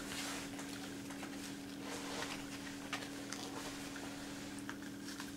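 Faint rustling and a few soft ticks of ribbon being wrapped around a CD, over a steady low hum.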